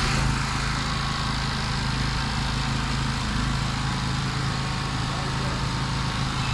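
Restored generator engine running steadily at a constant speed.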